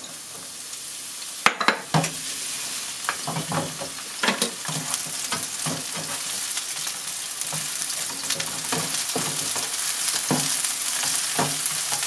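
Sliced green onions sizzling in oil in a nonstick frying pan, the oil being infused for scallion oil, while a spatula stirs them with repeated scrapes and taps on the pan, two sharp knocks about a second and a half in. The sizzle grows steadily louder.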